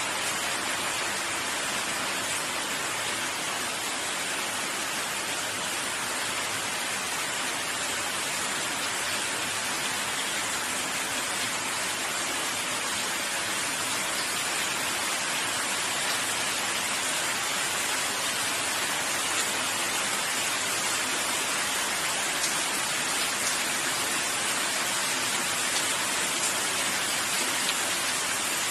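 Steady, even rain falling and pattering on a surface, with a few faint separate drop strikes.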